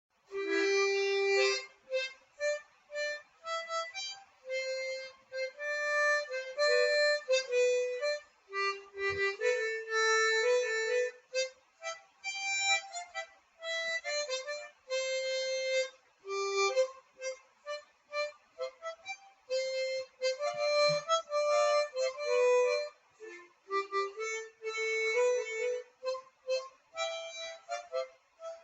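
Solo instrumental music: a reedy wind instrument playing a melody of short notes and chords, with brief pauses between phrases.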